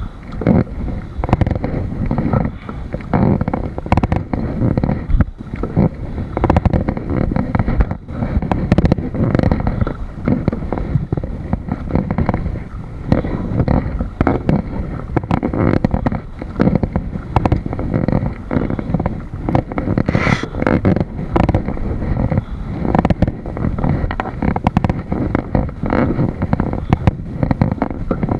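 Wind buffeting the microphone: a loud, rumbling, fluttering noise that rises and falls irregularly in gusts.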